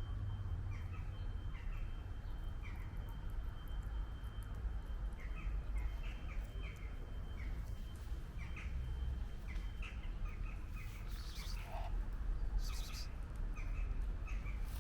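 Small birds chirping in short, repeated, slightly falling notes over a steady low rumble. About eleven and again thirteen seconds in come two short bursts of hissing noise.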